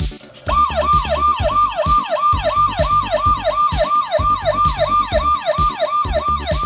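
Toy fire truck's electronic siren, set off by a push button: a quick wail falling in pitch, repeated about three times a second, starting about half a second in.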